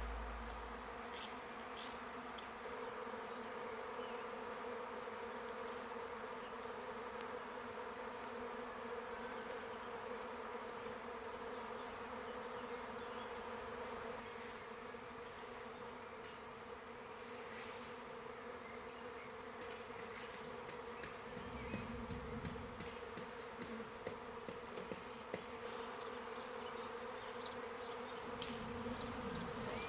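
A swarm of honeybees in flight, a steady deep hum of many bees buzzing together.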